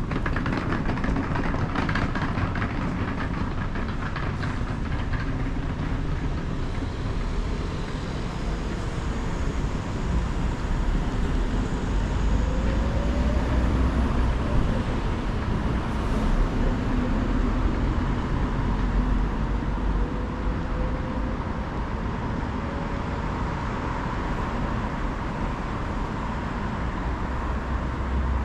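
Steady low rumble of passing vehicles on a city street, with faint rising and falling whines from engines mixed in.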